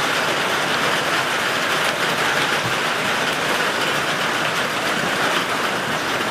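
Steady heavy rain falling, a dense even hiss of drops with no break.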